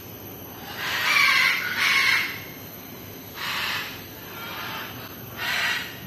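A series of harsh bird calls: two loud ones close together about a second in, then three shorter ones, spaced about a second apart.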